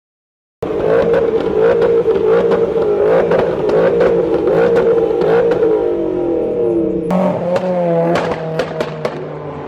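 Car engine revving, its pitch rising and falling repeatedly, with sharp cracks throughout and several falling sweeps near the end.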